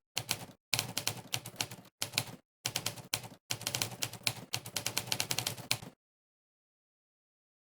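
Monkeytype's typewriter keystroke sound effect, a sampled typewriter key strike played for every key pressed during fast typing. It comes in quick runs of clicks broken by short pauses and stops dead about six seconds in.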